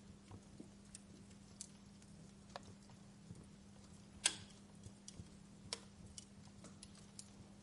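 Wood fire crackling: irregular sharp pops and snaps, the loudest a little past halfway. A faint steady hum lies underneath.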